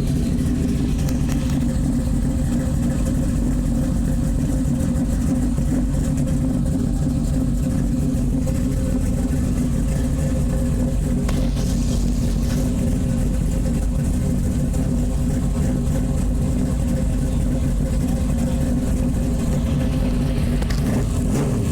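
Car engine idling steadily, heard close to its exhaust.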